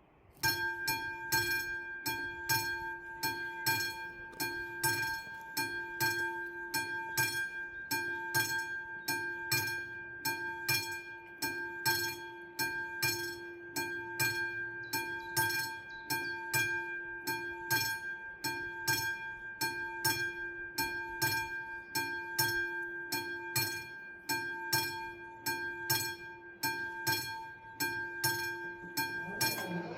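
Classic electric level-crossing bells of an AŽD 71 crossing start ringing about half a second in, a rapid, even clatter of strikes over a steady ring: the crossing's warning for an approaching train. Near the end a train begins to be heard coming in.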